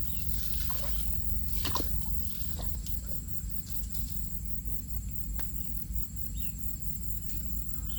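Steady high insect trill with scattered short bird chirps over a low rumble. A couple of sharp clicks, about two seconds in and again past the five-second mark.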